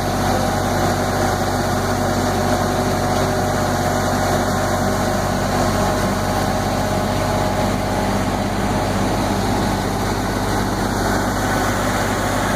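Zoo tram's engine running steadily as the tram drives along, a constant, even mechanical hum.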